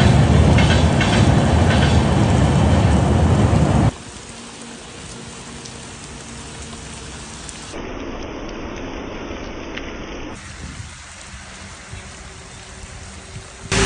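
Rain falling as a steady hiss, loud and heavy at first. About four seconds in it cuts suddenly to a much softer, thinner rain sound.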